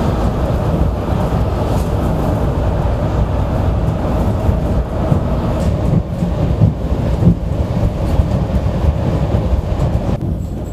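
Train running past on the rails close by: a loud, steady rumble of wheels on track with scattered knocks, easing slightly near the end.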